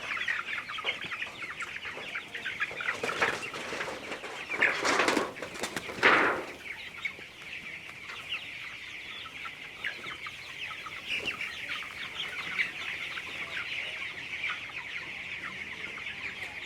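A shed full of young broiler chickens, about three weeks old, chirping and clucking without pause. A few louder noisy bursts come about three, five and six seconds in.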